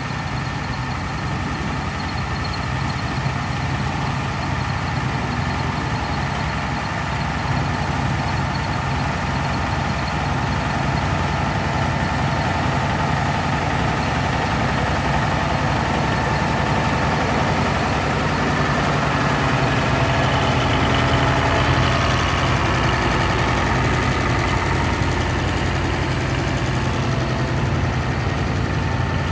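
Versatile 900 four-wheel-drive tractor's 903 Cummins V8 diesel engine running steadily at idle, its low note getting somewhat louder about two-thirds of the way through.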